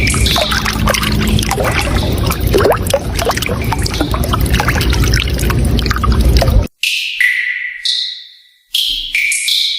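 Running water, with a soft ringing melody over it. The water cuts off suddenly about seven seconds in, leaving a few chime-like notes that ring and fade.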